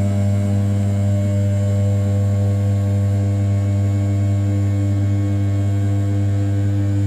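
Brushless spindle of an RZ420 desktop CNC mill running at 6000 rpm while roughing the outer profile of an A7075 aluminium block: a steady low hum with a stack of overtones.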